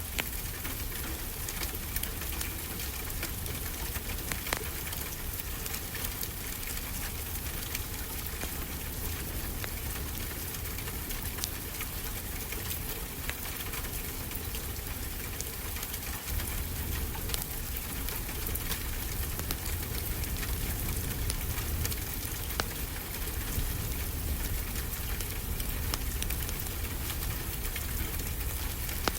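A wood fire crackling with frequent small pops and snaps over a steady low rush of ocean surf, the two mixed together as a continuous sleep ambience.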